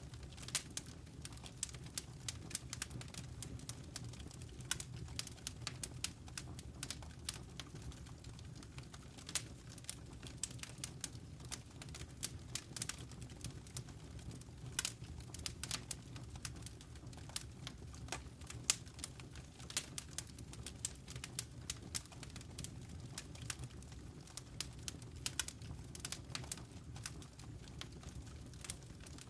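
Wood fire crackling in a fireplace: frequent irregular sharp pops and snaps over a low, steady rumble of burning.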